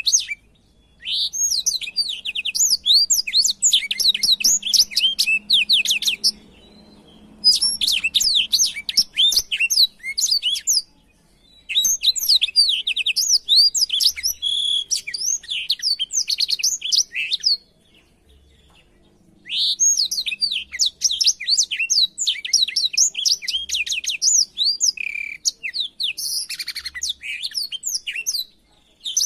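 Blackthroat (black-throated canary) singing in long bouts of fast, high, sweeping twittering notes. There are four bouts, with short pauses of a second or two between them.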